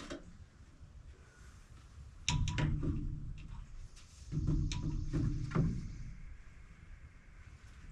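Heavy, wet red oak log rolling and banging onto the sawmill's steel bed, in two bouts of rumbling knocks about two seconds and four seconds in.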